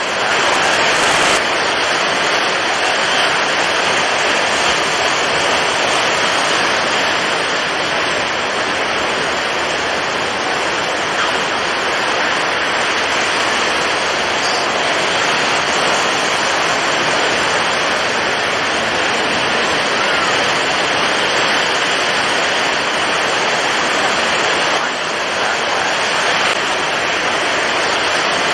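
Storm at sea: strong wind and heavy waves making a dense, steady rush of noise that swells and eases slightly, with a brief louder burst about a second in.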